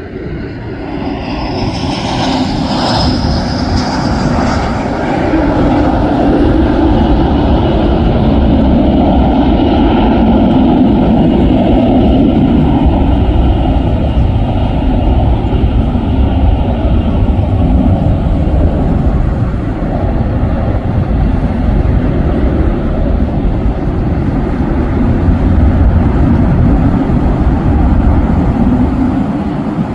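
Airliner engines passing close by. A high whine in the first few seconds fades as a loud, steady rumble builds and then holds.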